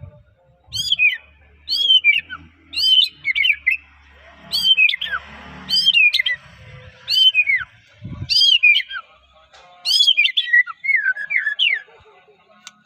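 White-rumped shama (murai batu, Medan type) singing: a run of loud, clear phrases, each sweeping down in pitch, repeated about once a second and stopping near the end.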